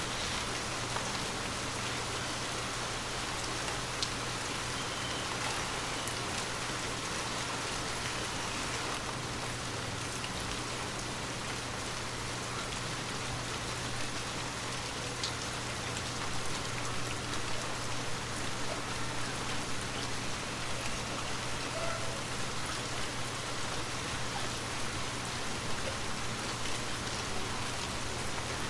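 Steady light rain falling on a window pane, an even hiss with scattered single drop ticks and a low steady hum underneath.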